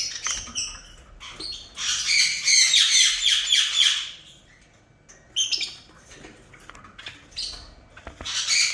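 Pet parrots squawking in harsh, rasping calls: one long call of about two seconds near the start, then several shorter squawks.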